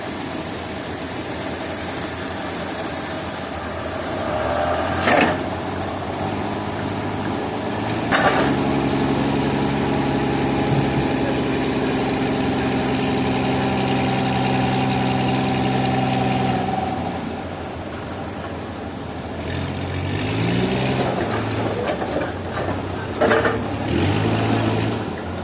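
An engine running steadily, louder through the middle, then rising in pitch twice near the end as it is revved. A few sharp clanks come over it.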